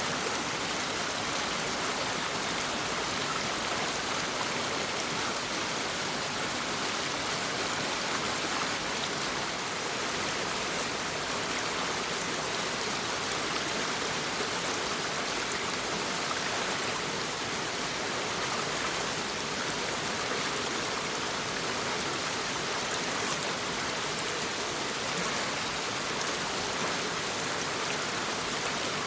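Shallow brook babbling over stones, a steady, even rush of running water.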